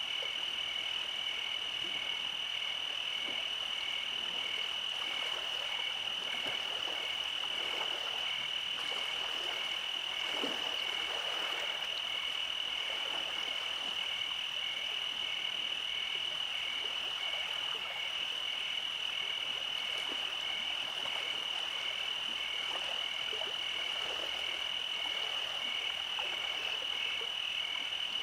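Night chorus of calling animals: a steady high-pitched trill, with a softer call pulsing evenly just below it.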